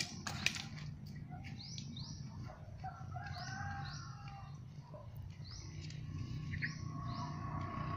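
Small birds chirping: short, quick, falling chirps, often in pairs, every second or so.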